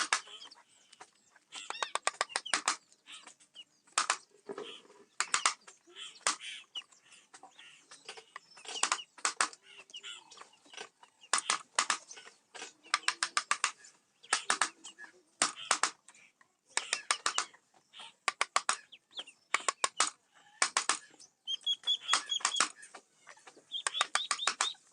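Hand wood carving in teak: a small mallet tapping a carving chisel in quick runs of sharp taps, each run lasting about half a second to a second and a half, with short pauses between runs.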